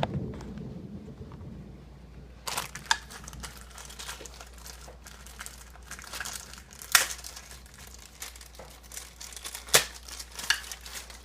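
Packaging crinkling and rustling as a model display stand is unwrapped by hand, starting a couple of seconds in, with two sharp snaps later on.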